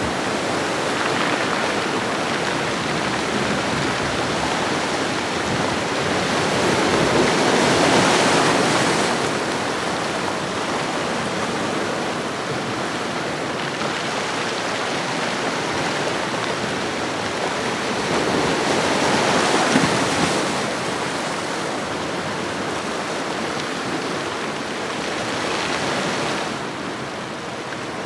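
Ocean waves washing onto a shoreline: a steady hiss of surf that swells and ebbs, with waves cresting about eight seconds in, around twenty seconds in, and again near the end.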